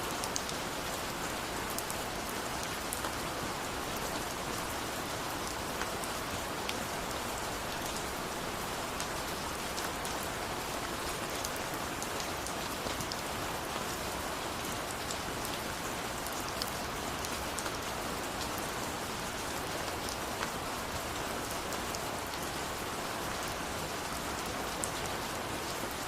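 Steady rainfall, an even hiss with scattered sharp drop ticks over it.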